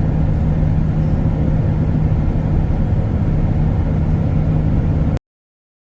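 In-cab engine drone and road noise of a concrete agitator truck cruising on the highway, steady, with a constant low hum. It cuts off abruptly to silence about five seconds in.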